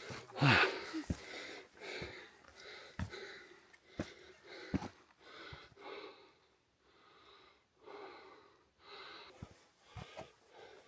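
A hiker breathing hard and heavily, one breath about every second, with scattered sharp knocks of footsteps on rock.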